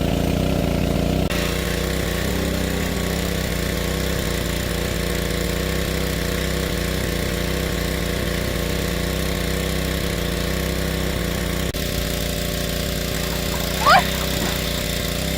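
A small engine running steadily at a constant speed, with a short rising squeal about two seconds before the end.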